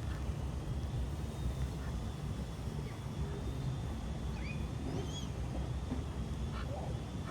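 Outdoor pond ambience: a steady low rumble with a faint, steady high-pitched tone over it, and a few short bird chirps about two thirds of the way in.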